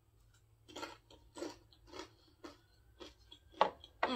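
A person biting and chewing a crispy fried wonton: a run of crunches about two a second, the loudest near the end.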